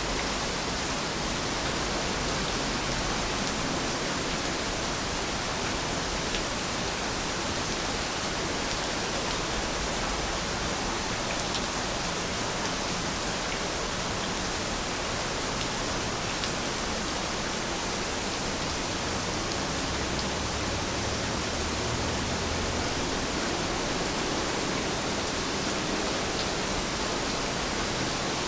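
Steady, even rain falling, with a few faint drop ticks.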